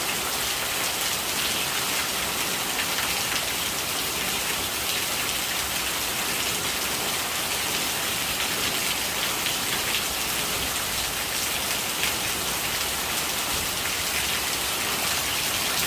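Steady rain falling, a dense, even patter of drops with a hiss of falling water.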